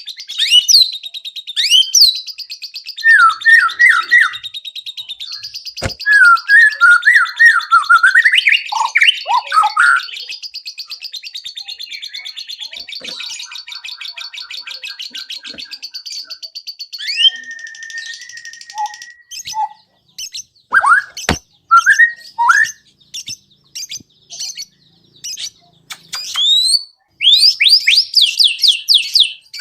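White-rumped shama (murai batu) singing a long, varied song of loud whistled phrases, fast buzzing trills and quick clicking notes, with mimicked calls worked in.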